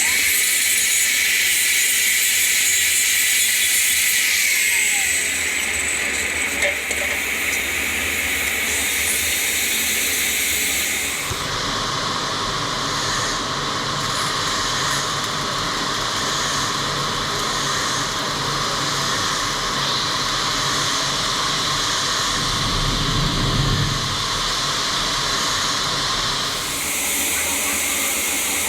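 Welding arc hissing and crackling steadily during a weld pass. The sound changes character abruptly about eleven seconds in and changes back near the end.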